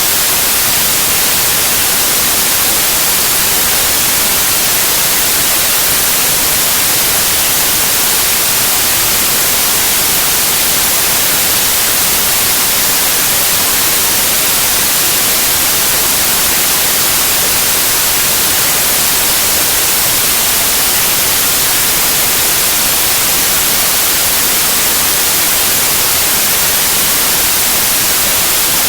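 Steady white noise: an even, unchanging hiss, strongest in the highs, with no rise, fall or break.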